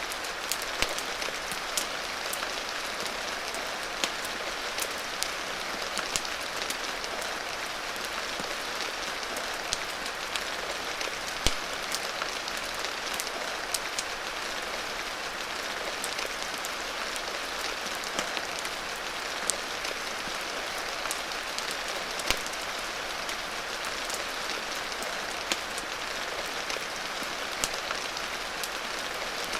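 Steady rain hissing evenly, mixed with a crackling wood fire whose sharp pops and snaps come at irregular moments.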